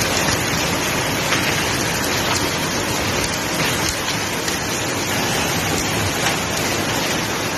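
Loud, steady rushing of water: a dense, even hiss.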